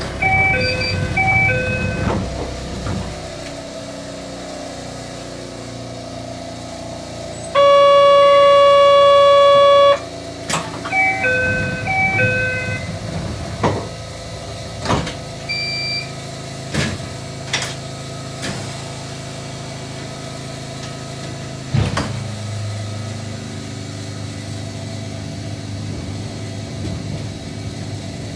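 Narrow-gauge electric train: a short electronic chime of a few notes, then a loud horn held for about two seconds, then the chime again. After that come a run of sharp clacks over rail joints, and from about twenty seconds in a steady running rumble.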